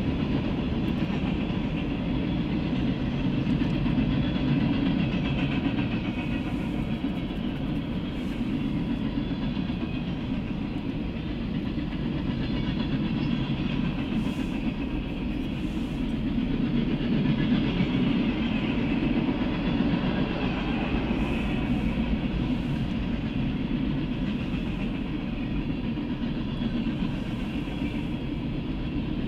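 Freight train cars rolling steadily past: a continuous rumble of steel wheels on the rails, strongest in the low range, with a lighter rail hiss above it.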